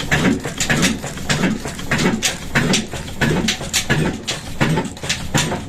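Old stationary single-cylinder diesel engine running slowly with an even beat about twice a second, each beat a low thud with a sharp clack.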